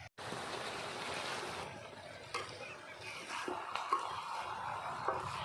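Chicken pieces sizzling and frying in hot oil in a kadai, a steady hiss with a few light knocks.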